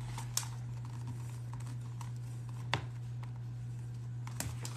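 Small clicks and taps of tools and leather being handled on a workbench, three sharper ones standing out, the loudest about two and three-quarter seconds in, over a steady low hum.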